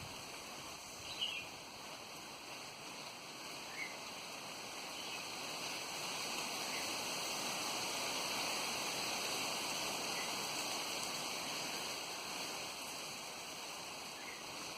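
Steady rush of wind that swells for a few seconds in the middle, with a few brief high bird chirps, one about a second in and another near four seconds.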